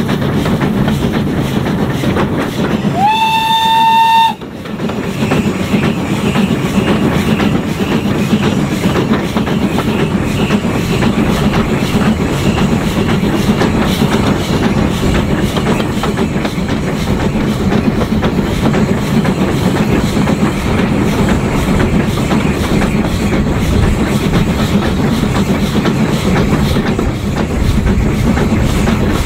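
Steam train running with a steady rumble and clatter of wheels on rail, the locomotive being ex-Somerset & Dorset 7F 2-8-0 No. 53809. About three seconds in, one short steam whistle blast that slides up in pitch as it opens and stops abruptly.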